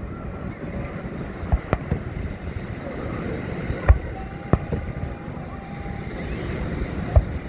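Fireworks exploding in the distance: about five sharp bangs at uneven intervals, the loudest about four seconds in, over a steady rumble of wind on the microphone.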